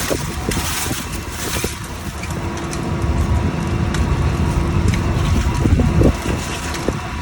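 Fishing boat's engine running with a steady low rumble, with wind on the microphone and a few short knocks.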